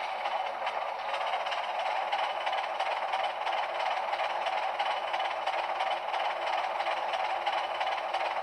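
HO-scale Atlas HH600/660 model locomotive's LokSound V5 sound decoder playing its diesel switcher engine sound through a small sugar cube speaker, running steadily as the model moves along the track.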